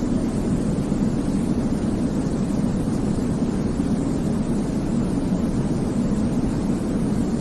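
Steady baby-sleep white noise: an even, deep rumbling hiss, heavier in the low range than in the highs, with no breaks or changes.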